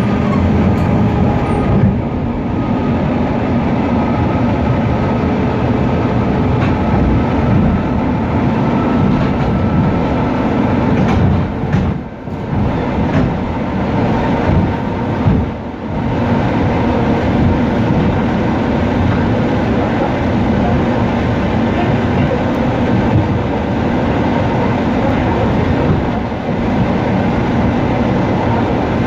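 Suburban electric train (elektrichka) running at speed, heard from inside the carriage vestibule: a steady, loud rumble of wheels and running gear on the rails. It dips briefly twice, about 12 and 16 seconds in.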